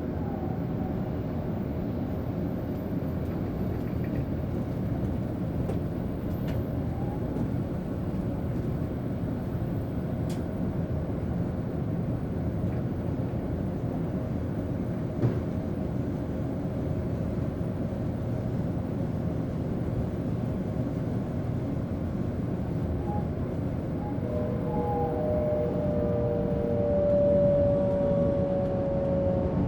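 Sanyo Shinkansen train running, heard from inside the passenger cabin as a steady rumble of wheels and air. Near the end a whine of a few close tones comes in and the noise grows a little louder.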